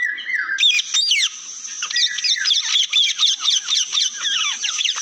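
Parrots chirping and chattering, many quick falling calls overlapping densely. A short whistled phrase at the start gives way to the chatter under a second in.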